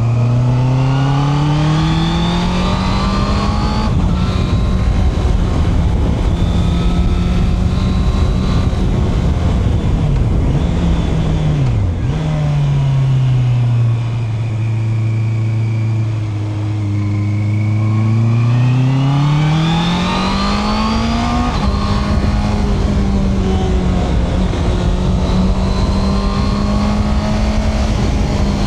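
Honda CB650R's 649 cc inline-four running under riding load, heard from the rider's position. The engine note climbs over the first few seconds and holds. About twelve seconds in it drops to a lower steady note, then climbs again around seventeen to twenty-one seconds in and holds, with wind and road noise underneath.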